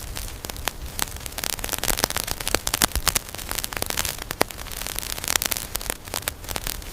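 Dense, irregular crackling: many sharp crackles over a steady hiss.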